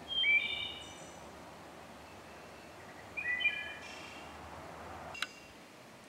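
A songbird singing two short phrases of quick, level whistled notes about three seconds apart, over a steady background hiss. A single sharp click near the end.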